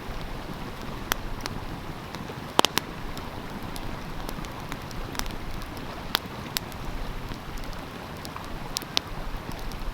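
Wood fire crackling with scattered sharp pops, the loudest a quick double pop about two and a half seconds in, over the steady rush of a flowing stream.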